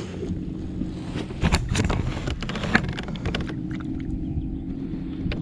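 Handling noise aboard a fishing kayak: several sharp knocks and clicks in the first half, over a steady low rumble of wind on the microphone and a faint hum.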